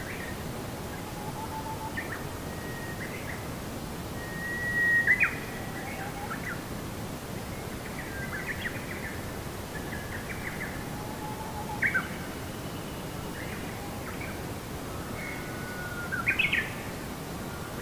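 Songbirds singing: short whistled notes and chirped phrases every second or two, loudest about five seconds in and near the end, over a steady background hiss.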